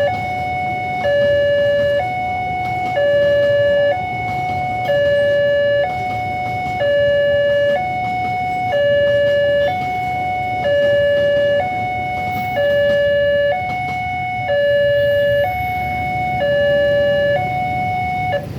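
Railway level-crossing warning alarm sounding a steady two-tone hi-lo signal: a higher and a lower note alternate about once a second, warning that a train is coming. It cuts off just before the end.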